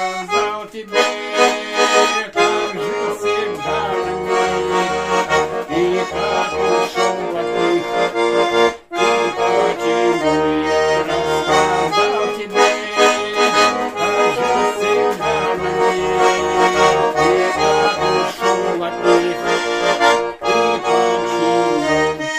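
Garmon (Russian button accordion) playing an instrumental passage alone: a melody over rhythmic bass-and-chord accompaniment, with a brief break about nine seconds in.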